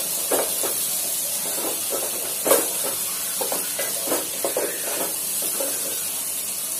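Soya chunks and masala sizzling as they fry in oil in a nonstick pot, with a plastic spatula stirring and scraping through them in irregular strokes; one stronger scrape about two and a half seconds in.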